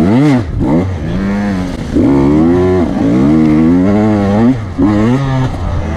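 Off-road motorcycle engine revving hard as it is ridden along a trail, its pitch climbing and dropping back several times as the throttle is worked and gears change, with a few short dips where the throttle is rolled off.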